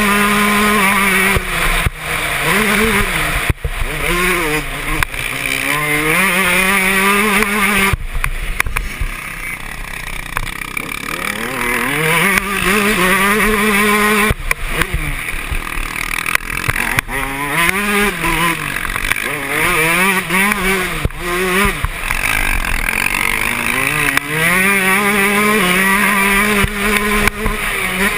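Yamaha YZ125 two-stroke motocross engine revving up and falling back again and again as the rider works the throttle and gears. It eases off into a quieter stretch about a third of the way in, then builds again.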